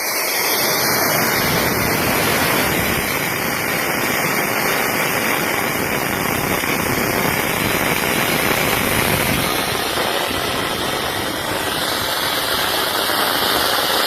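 Homemade pipe rocket engine burning its cooked sugar-based propellant: a loud, steady rushing hiss of exhaust.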